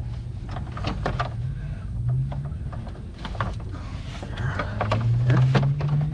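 Plastic and metal knocking and scraping as a radiator is worked up and out of the engine bay with its hoses and lines moved aside, many short knocks scattered through. Under it runs a steady low hum, with a low tone that rises in pitch twice.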